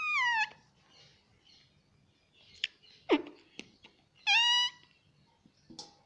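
Indian ringneck parrot calling: a falling, meow-like call at the start, a short downward squeak about three seconds in, and a second drawn-out call a second later.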